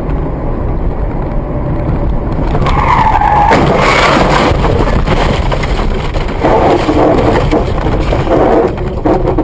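A car skidding, its tyres squealing about three seconds in, over loud steady road and engine noise.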